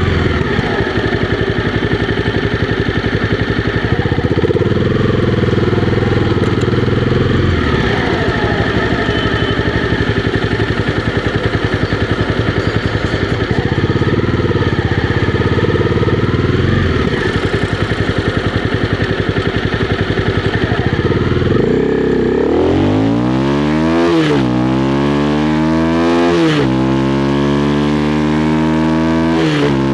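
Honda CB300R's single-cylinder engine running steadily at speed, then, about three-quarters of the way through, accelerating: the pitch climbs, drops at two gear changes, and climbs again.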